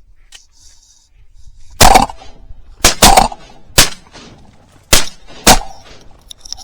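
Shotgun fire: six shots in about four seconds, starting about two seconds in, with two of them fired close together.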